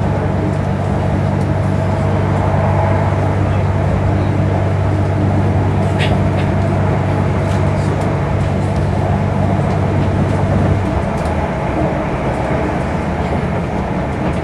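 Interior of an Airport Rail Link electric train running at speed on elevated track: steady rumble of the moving carriage with a low hum that drops away about eleven seconds in.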